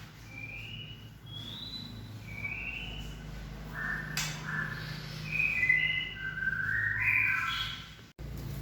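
White-rumped shama giving a string of short, clear whistled notes, some stepping up or down in pitch, over a low steady hum. The sound cuts off abruptly about eight seconds in.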